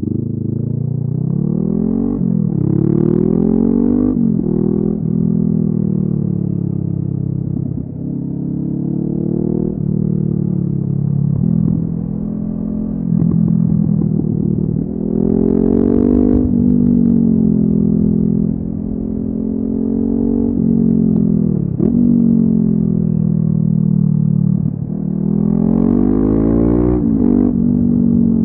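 Honda CB500F's parallel-twin engine through a LeoVince aftermarket exhaust, under way. Its pitch climbs and then drops back sharply again and again as the bike accelerates and changes gear, with a few stretches of steadier running.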